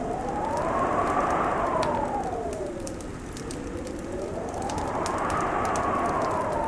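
Winter wind howling in slow swells, its pitch rising and falling about every four seconds, over a wood fire crackling with scattered sharp pops.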